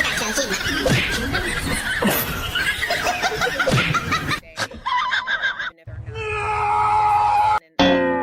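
Several people laughing hard together; the laughter breaks off about four and a half seconds in, followed by a short steady held tone.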